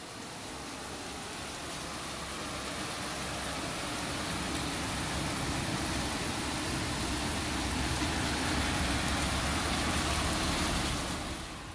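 Heavy rain falling steadily, a dense hiss over a low rumble that slowly grows louder and then drops away near the end.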